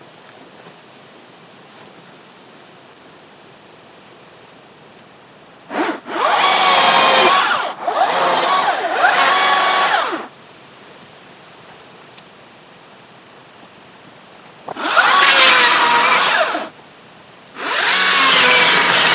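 Battery-powered chainsaw cutting through a fallen cherry branch in four bursts, starting about six seconds in; the motor's whine sags and rises in pitch as the chain bites into the wood, and it goes quiet between cuts.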